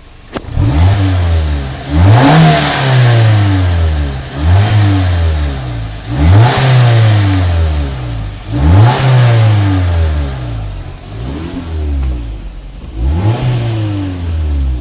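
Suzuki Swift Sport's 1.6-litre four-cylinder engine revved in quick blips through its exhaust, about seven times. Each rev rises sharply and then falls back toward idle.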